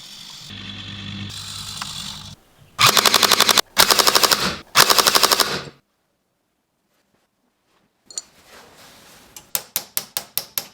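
Three short bursts of rapid machine-gun fire, about ten shots a second, from the RC truck's roof-mounted machine-gun turret. A steady hum comes before the bursts, and a run of sharp clicks follows near the end.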